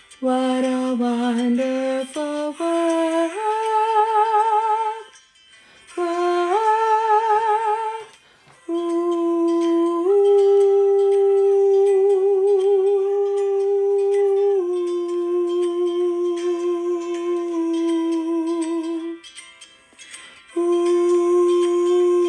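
Choir humming a slow, wordless melody in unison: long held notes with vibrato, in short phrases with brief breaths between them.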